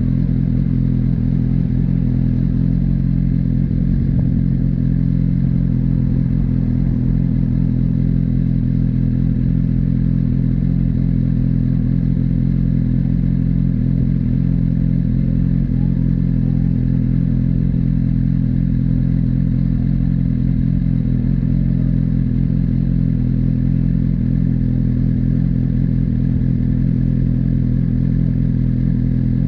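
Suzuki GSX-R1000R inline-four engine idling steadily at a standstill, heard close from the bike.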